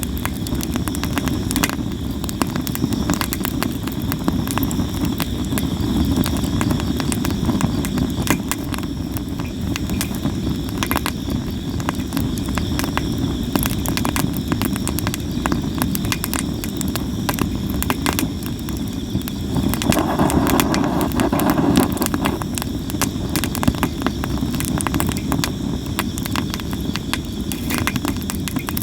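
Campfire of sawara cypress wood burning, with a steady low rush of flame and constant crackles and pops, and insects trilling steadily behind it. The flames swell louder for a couple of seconds about twenty seconds in.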